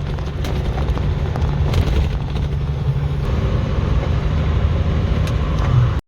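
Truck engine and road noise heard from inside the cab while driving: a steady low rumble that cuts off abruptly near the end.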